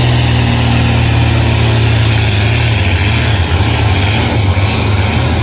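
Heavy engine of a pulling vehicle running with a loud, steady low drone.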